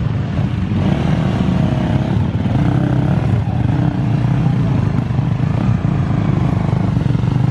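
Motocross dirt bike engines running steadily.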